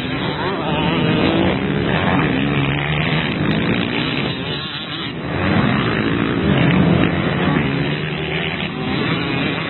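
Motocross bikes racing, their engines revving up and falling back repeatedly as riders work the throttle around the track.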